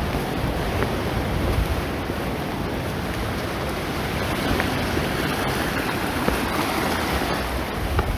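Sea waves washing on the shore, a steady rushing noise, with wind buffeting the microphone.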